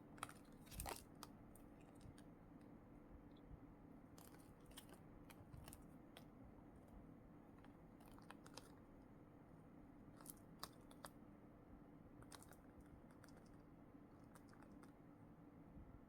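Faint, sparse crinkles and small clicks of plastic packaging being handled, over a low steady hum.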